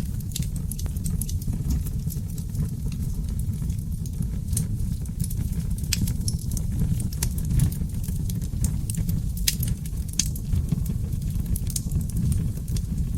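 Wood fire of seasoned oak logs burning in a fireplace: a steady low rumble of flames with frequent, irregular sharp crackles and pops.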